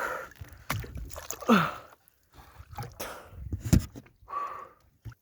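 Water splashing around a small boat, with a few sharp knocks, twice standing out.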